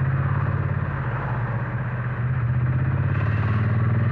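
Triumph Bonneville T100's parallel-twin engine and exhaust running steadily under way, heard from the rider's helmet. It eases slightly about a second in and builds again near the end.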